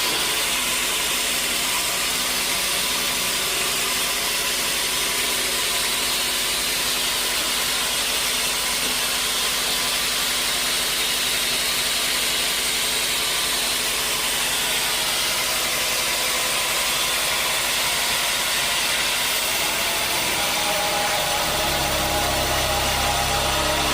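Sawmill machinery running with a steady, loud noise; a deeper hum comes in about 21 seconds in.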